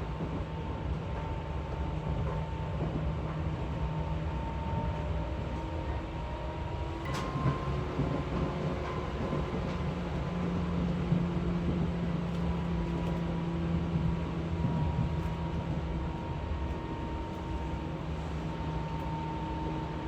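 Seibu 4000 series electric train running at speed, heard from inside the carriage: a steady rumble with a constant hum and one sharp click about seven seconds in.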